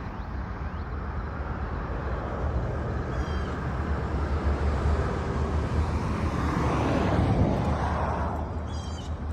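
Steady low outdoor rumble that swells to a peak about seven seconds in and then fades, with two short high bird calls, one about three seconds in and one near the end.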